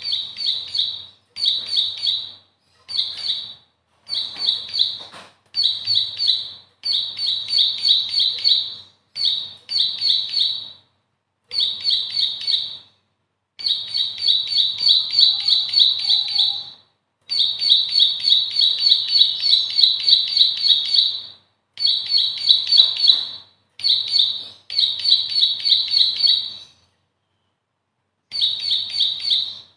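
Bar-winged prinia (ciblek) singing: runs of rapid, high repeated notes, each lasting one to four seconds, with short breaks between them and a longer pause near the end.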